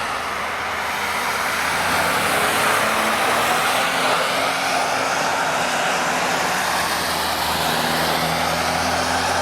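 A car running on a wet track: a steady hiss of tyre spray over a low, even engine note.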